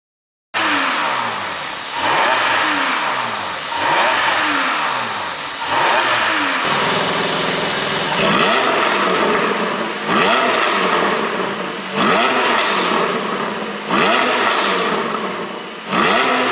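Porsche 718 Boxster GTS 4.0's flat-six engine revved in repeated throttle blips, about one every two seconds: each time it rises sharply, then falls back, on an ECU tune meant to make it pop on the overrun.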